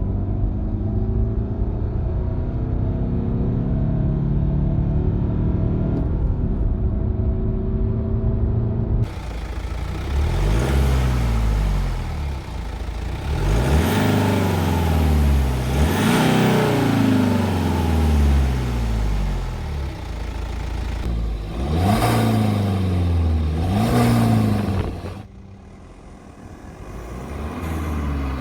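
BMW 316d's four-cylinder turbodiesel engine accelerating hard through the gears of its manual gearbox. The revs climb and then drop sharply at each gear change, several times over. The sound dips briefly near the end before rising again.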